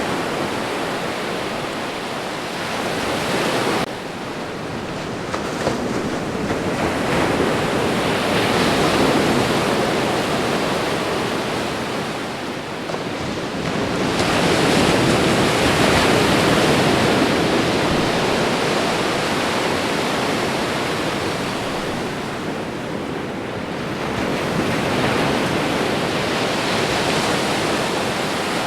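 Ocean waves breaking and washing on a shore: a continuous rushing surf that swells and ebbs every several seconds, with a sudden dip about four seconds in.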